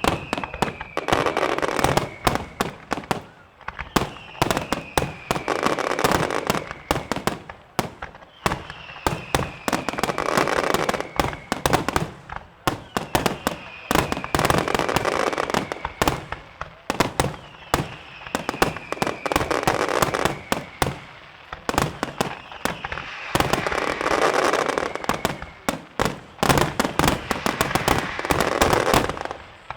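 Fireworks finale barrage: rapid, dense bangs and cracks, with a falling whistle followed by a surge of rushing crackle repeating about every four and a half seconds.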